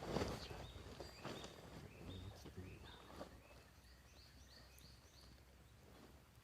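A small songbird singing a run of short, clear whistled notes that climb higher toward the end. A few rustling, knocking handling noises come near the start.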